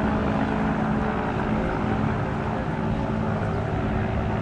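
Piston engine of a replica First World War propeller aircraft running steadily in flight, a constant drone with a steady pitch.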